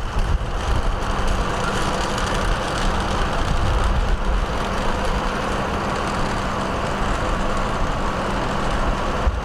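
A vehicle engine running steadily, with a constant low hum and rumble.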